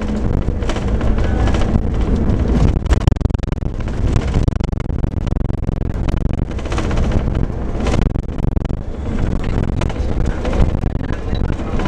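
Scania K410 coach's diesel engine and road noise while the bus is under way: a steady, dense rumble with wind on the microphone and frequent short knocks and rattles.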